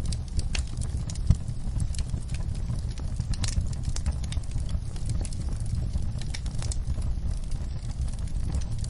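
Wood fire crackling in a fireplace: irregular pops and snaps over a steady low rumble, with one sharper pop about a second in.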